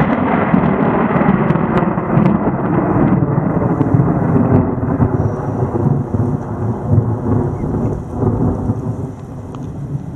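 Loud rolling thunder from a close lightning strike, rumbling heavily for several seconds and easing off near the end, with rain falling underneath.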